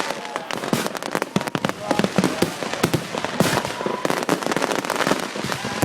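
Bangers (firecrackers) going off in rapid, irregular succession, several sharp bangs a second, with crowd voices underneath.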